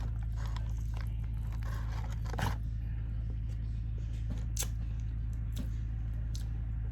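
Person chewing food close to the microphone, with a few short crunching or wrapper-crackling sounds, over a steady low hum.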